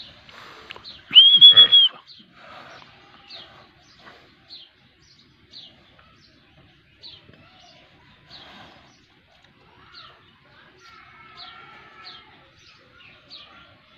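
Small birds chirping in short, high calls repeated about once a second, with one loud, high whistle about a second in that lasts under a second.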